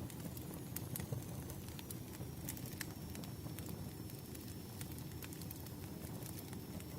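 Firewood burning in a fire, crackling with irregular sharp pops over a steady low rumble.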